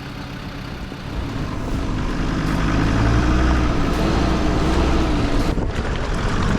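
Off-road 4x4's engine revving hard under load. The revs build about a second in, hold with a wavering pitch, and the deep rumble eases off near the end.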